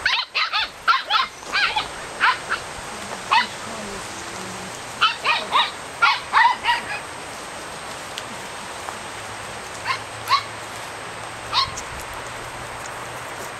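Norrbottenspets puppies yipping in high-pitched, rapid runs of short barks, a quick string at the start and another about five seconds in, then three single yips near the end.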